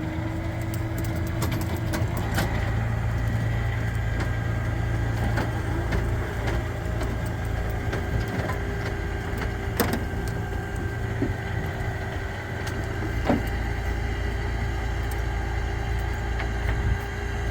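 A vehicle engine running steadily, with a few sharp knocks and clanks over it.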